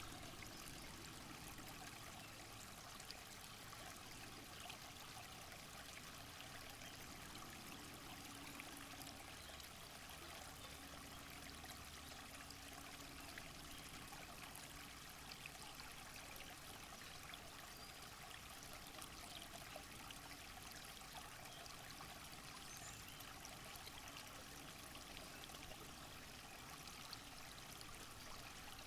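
Faint, steady rushing of flowing water in the rainforest ambience, with a few tiny ticks scattered through it.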